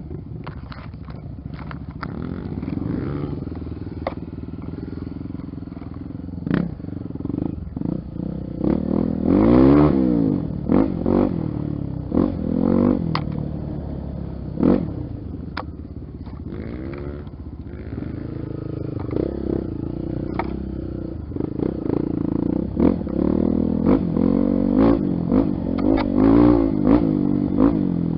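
Honda XR 250 Tornado's single-cylinder four-stroke engine being ridden off-road, its revs repeatedly dropping and rising as the throttle is worked. Short sharp knocks and rattles from the bike over rough ground run throughout.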